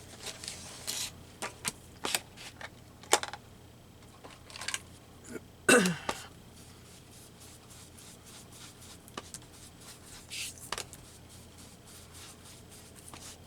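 Scattered taps, clicks and brief rubbing of paper and craft supplies being handled on a desk, with one louder knock and scrape about six seconds in.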